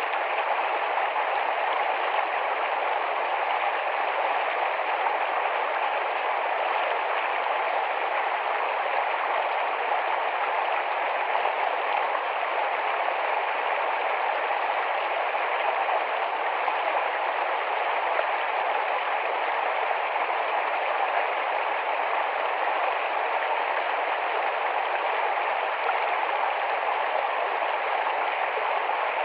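Rapid, shallow forest stream flowing: a steady, even rush of running water.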